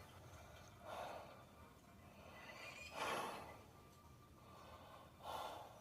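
A woman's faint breathing: three soft breaths about two seconds apart.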